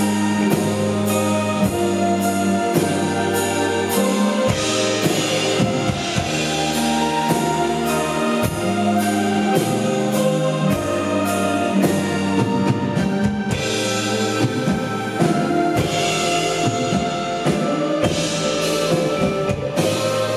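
Live indie rock band playing an instrumental passage: drum kit keeping a steady beat of cymbal and snare hits over sustained bass notes and guitar chords, heard through the room's PA. The band stops just after the passage ends.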